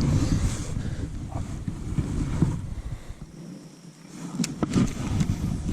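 Wind buffeting the microphone in an uneven, gusty rumble that drops away briefly in the middle and comes back, with a few sharp knocks near the end.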